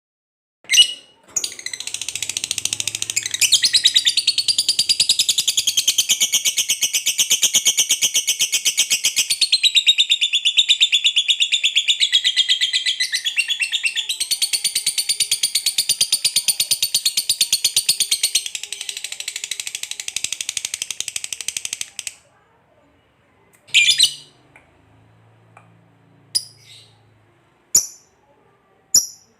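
Lovebird singing a long 'ngekek': one unbroken, fast chattering trill that lasts about twenty seconds, followed by a few short, sharp chirps. This long ngekek is the song prized in Indonesian fighter (contest) lovebirds.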